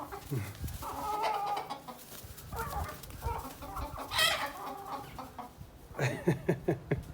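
A flock of chickens clucking and squawking as they scrap among themselves, a rooster among them. A sharp, high squawk comes about four seconds in, and a quick run of calls near the end.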